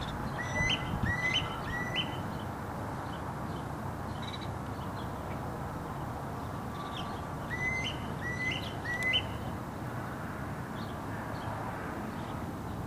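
A bird calling in two sets of three quick whistled notes, about seven seconds apart, each note jumping upward in pitch. Beneath it runs a steady low background rumble.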